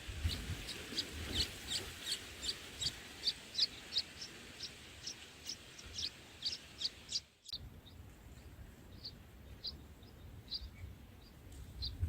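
A small bird chirping, short high notes about three a second, over low background rumble. The chirping breaks off suddenly about seven seconds in and resumes more sparsely.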